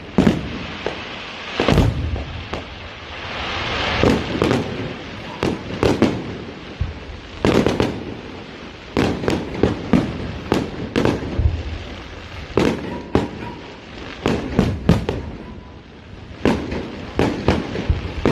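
Fireworks display going off: a rapid, irregular run of bangs and pops, with a stretch of crackling hiss about three to five seconds in.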